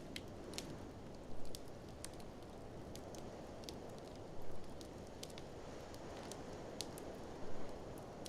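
Wood fire in a fireplace crackling with many sharp, irregular pops over a steady low rush of blizzard wind. Three louder short thumps come about three seconds apart.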